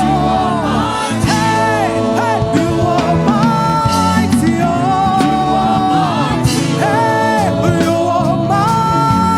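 Live gospel praise-and-worship music: a band playing sustained chords under singing, with long held melody notes that glide between pitches.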